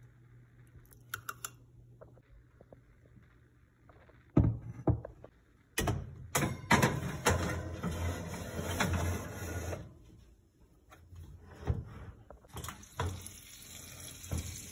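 Kitchen handling sounds: a sharp knock, then several seconds of clattering and rustling with many small knocks, and more handling near the end.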